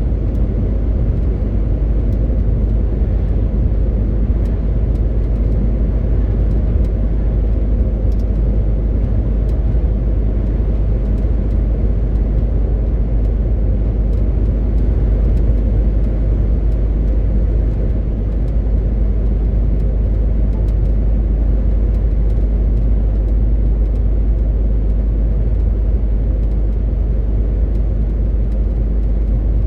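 MAN TGX 18.520 truck's straight-six diesel running steadily at cruise, with the rumble of the road under it. The low drone holds even and unchanged throughout.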